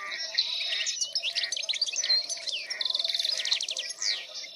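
Songbirds singing and chirping, with several overlapping quick whistled notes and a fast trill about three seconds in.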